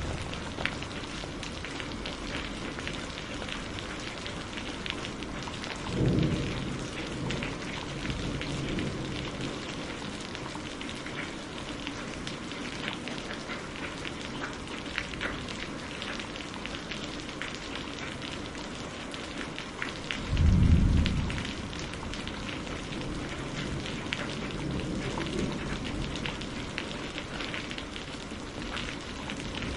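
Steady rain mixed with a crackling wood fire, with many small pops scattered throughout. Two brief low rumbles come about six seconds in and again about twenty seconds in.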